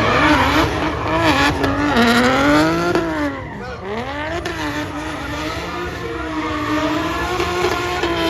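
A drift car's engine held at high revs, its pitch rising and falling repeatedly and dipping sharply about three and a half seconds in, with tyres screeching as the car slides.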